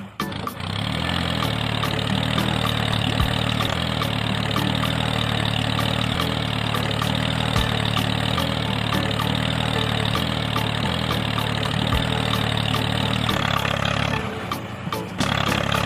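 Small engine idling steadily, ending about 14 seconds in.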